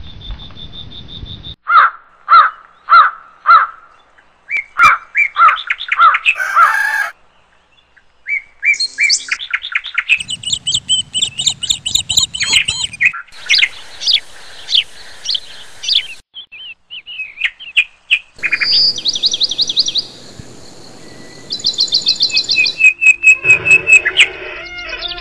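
Birds chirping and calling: a run of different chirps, trills and whistles that changes abruptly every few seconds.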